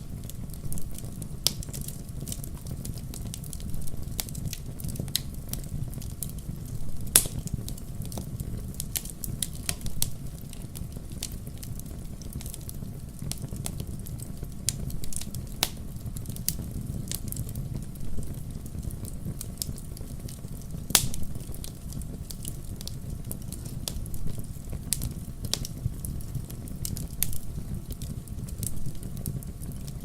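Wood fire in a fireplace crackling and popping over a low, steady rumble of flames, with many small snaps and two louder pops, about a quarter and about two-thirds of the way through.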